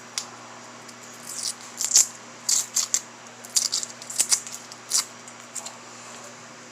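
Starburst candy wrappers being crinkled and peeled open by hand, in a series of short irregular crackles.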